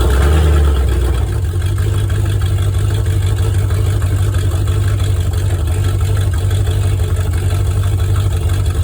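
Dodge Dart Sport's engine running steadily with a loud, fast-pulsing low rumble, a little stronger in about the first second. It is running before its ignition timing has been set.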